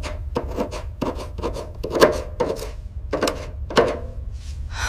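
A stiff brush scrubbing hard in short, uneven strokes, over a dozen in a few seconds, working encrusted sea growth off a recovered artifact. A steady low hum runs underneath.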